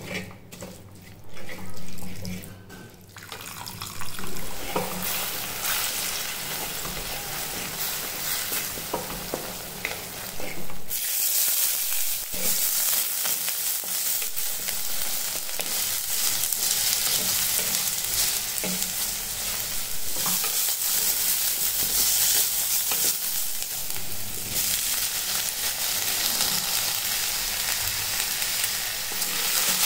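Food frying in hot oil in a heavy pot, stirred with a spatula that clicks and scrapes against the pot. The stirring is quieter at first, and about a third of the way in a loud, dense sizzle of chopped onions and vegetables in oil takes over.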